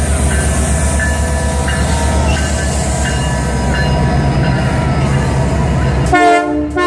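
Diesel locomotives of the Canadian Pacific Holiday Train rumbling in on arrival, with a steady rapid low pulsing. About six seconds in, the locomotive's air horn starts sounding a chord.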